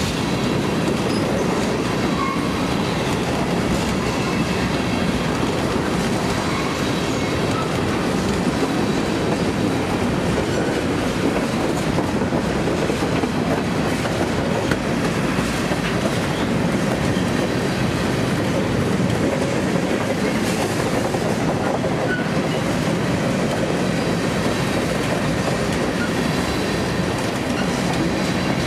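Freight train of covered hopper cars rolling past close by: the steady, even noise of steel wheels running over the rails.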